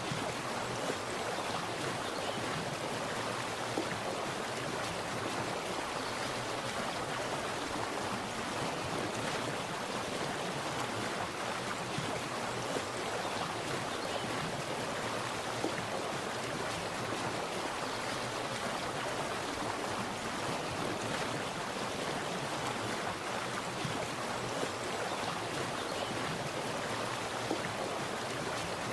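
Water splashing and burbling continuously, a steady, even rush with small irregular splashes.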